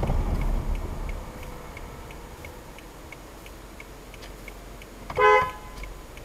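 Car turn-signal relay ticking evenly, about three clicks a second, over a low engine rumble that fades in the first second. About five seconds in, one short car-horn honk, the loudest sound.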